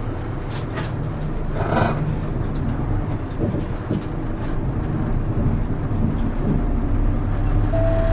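Inside a Hino KL-HR1JNEE city bus: its diesel engine running and pulling the bus along, getting gradually louder over the second half, with scattered rattles and clicks and a short hiss of air about two seconds in. Near the end an electronic announcement chime begins.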